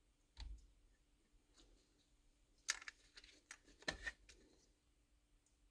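Faint plastic clicks and rustles of hands fitting a keyed airbag wiring plug into its connector, with a few sharper clicks about two and a half and four seconds in.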